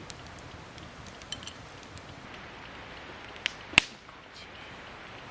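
Campfire wood crackling, with scattered faint pops over a steady hiss, and one sharp, loud click a little under four seconds in.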